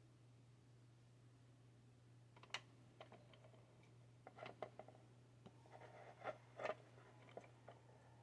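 Faint, scattered clicks and light taps of small plastic and metal parts being handled during hand assembly of a 3D printer kit. They start about two and a half seconds in and cluster near the end, over a steady low hum.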